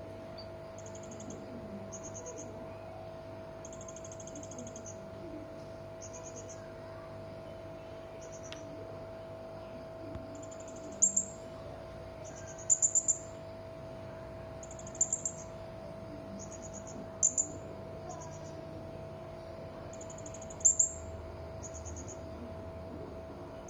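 Hanging parrot (serindit) calling: short, high, trilled chirps repeated every second or so, broken by sharper, louder calls in quick pairs and triples from about halfway through.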